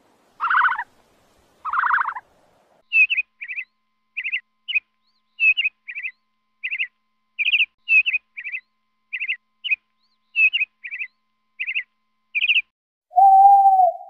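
Bird calls: two longer calls in the first two seconds, then a quick series of short chirps, about two a second, and near the end one longer, lower steady note.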